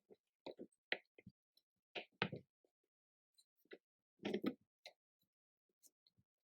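Light, irregular clicks and knocks, a few scattered strokes with short silences between, like objects being handled and set down.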